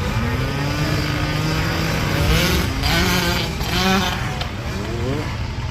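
Several motocross bike engines running on track, their pitch rising and falling as they rev and shift, busiest around the middle.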